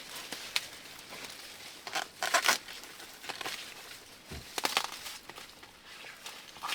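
Dry corn husks and leaves crackling and tearing in irregular bursts as ears of corn are snapped off the stalks by hand, loudest a little over two seconds in.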